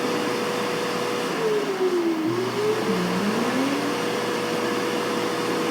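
Curaco Carebidet automatic care bidet running its cleaning cycle after urination: a steady motor whir with rushing air. About a second and a half in, a second tone dips and rises again for a couple of seconds, and a low hum joins it.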